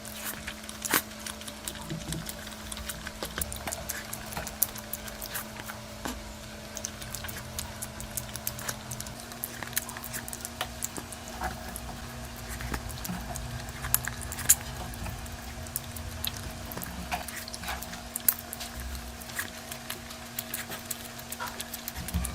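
Close-miked eating sounds of a person chewing and smacking, many small irregular clicks and ticks, over a steady faint hum.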